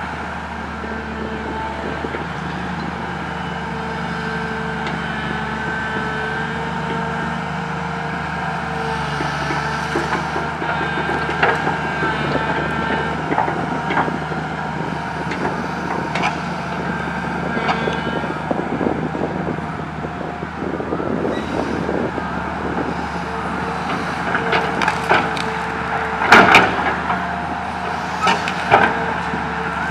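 Komatsu PC200 excavator's diesel engine running steadily, with branches and woody debris cracking and clattering as they are scooped and loaded, the loudest cracks coming near the end.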